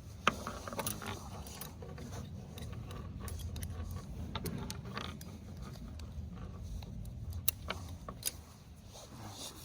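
Scattered light clicks and small rattles of gear being handled, over a steady low rumble.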